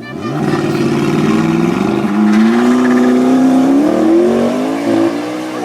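A supercar's engine accelerating hard from idle, its pitch climbing steadily for about four seconds, then dropping back slightly and holding near the end.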